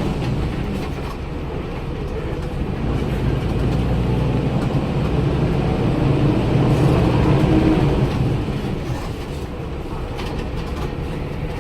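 Daewoo BS106 city bus's Cummins ISL 300 PS diesel engine running. Its low drone swells from about three seconds in and drops back after about eight seconds.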